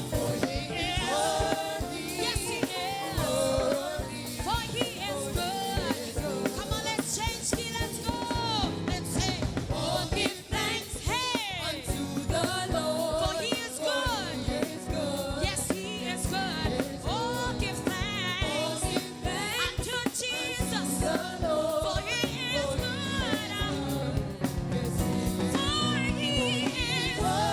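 Gospel praise song sung by a group of voices with band accompaniment and a steady drum beat: a congregation singing along in worship.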